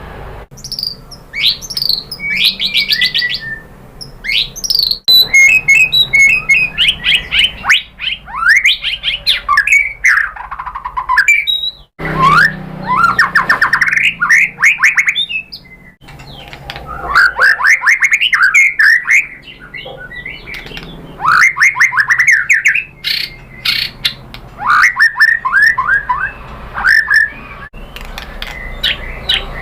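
White-rumped shama (murai batu) singing: loud, varied phrases, many of them fast runs of repeated sweeping whistled notes, following one another with only short pauses.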